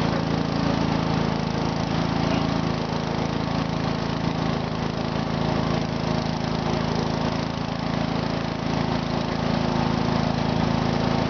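Small garden tractor engine running steadily at an even pitch, with a slight dip in level about eight seconds in.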